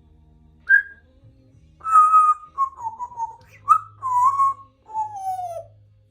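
African grey parrot whistling a string of clear notes: a short high chirp just under a second in, then several held and wavering whistles at about the same pitch, the last one gliding downward.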